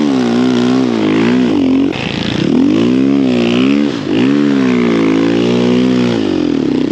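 Snow bike engine revving up and down continuously as the rider works the throttle through deep snow, its pitch rising and falling every second or so, with short drops off the throttle about two and four seconds in.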